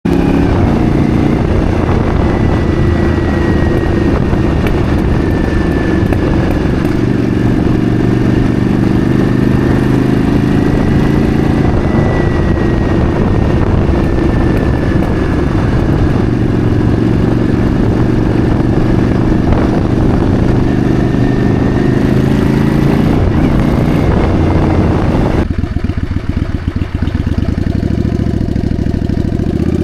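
Yamaha Virago bobber's V-twin engine running on the move, its note rising and falling, under a rush of noise. Near the end the rush drops away and the engine slows to a low, pulsing beat.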